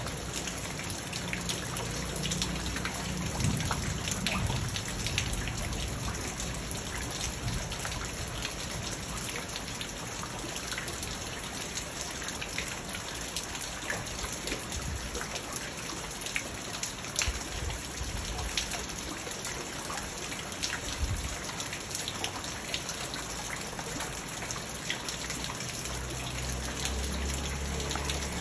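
Steady rain falling on a garden pond's water and the rocks and plants around it: an even hiss with many separate drop splashes. A low rumble comes in underneath near the end.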